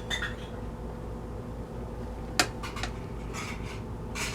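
Small metal clinks and clicks as a fitting is turned tight into a dishwasher water inlet valve, with one sharp click about halfway through. A steady low hum runs underneath.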